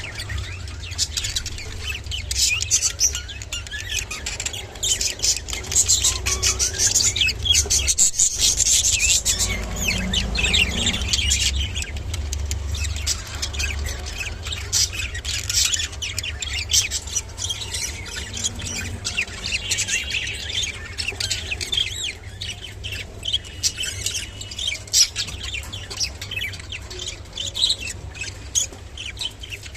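Budgerigars chattering and warbling, a continuous stream of rapid chirps and squawks, over a steady low rumble.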